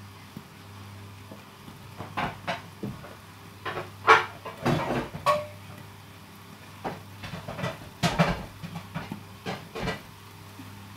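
Kitchenware being handled: irregular knocks and clatters, with one short ring, as a glass baking dish and utensils are set down and moved about. A steady low hum runs underneath.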